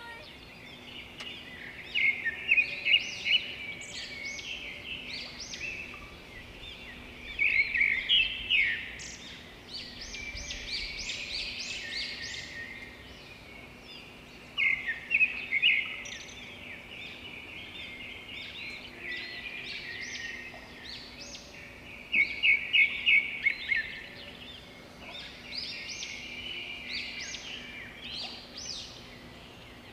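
Songbirds singing in woodland: quick high chirps and trills throughout, with several louder bursts of rapid repeated notes, over a faint steady hum.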